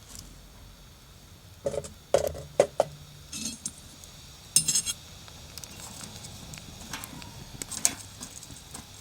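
Metal cookware and utensils clinking and knocking together in a few short clusters of sharp knocks, one knock leaving a brief metallic ring.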